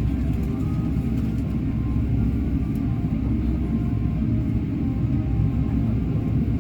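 Steady low rumble inside the cabin of a Boeing 777-300ER on the ground after landing, as it rolls toward the gate.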